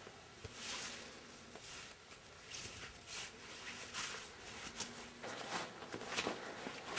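Footsteps crunching and swishing through deep, fresh snow, a soft step about every second.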